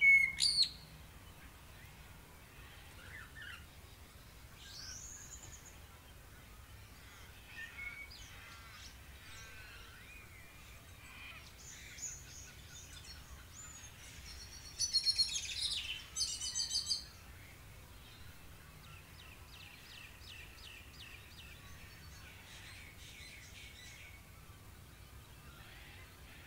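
Birds singing, a mix of short chirps, whistled slurs and trills. The loudest calls come right at the start and again about fifteen to seventeen seconds in, with a run of quick repeated notes a little later.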